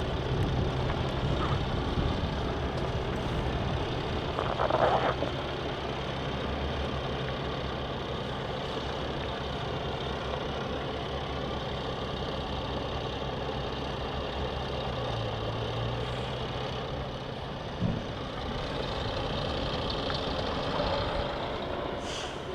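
Heavy diesel engine idling steadily, with a short burst of noise about five seconds in and a brief knock near 18 seconds.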